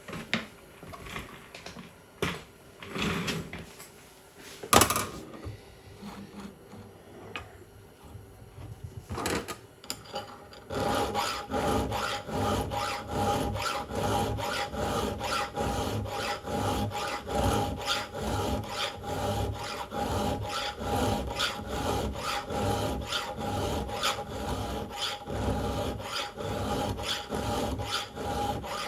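Saw chain being filed in a sharpening jig: about ten seconds of scattered knocks and a sharp click while it is handled, then steady back-and-forth file strokes, about two a second, with a faint metallic ring.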